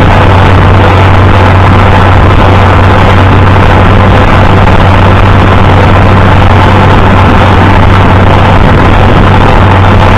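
International Harvester 560 tractor engine running steadily and loudly, with a deep, constant hum.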